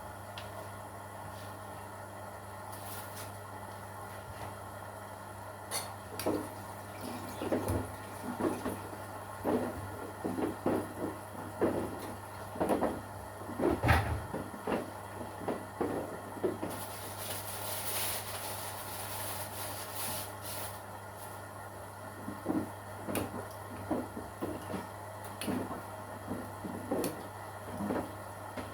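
Washing machine running: a steady hum, with irregular knocks and thuds of laundry tumbling in the drum from about six seconds in, the loudest about halfway through. A brief high hiss comes about two-thirds of the way through.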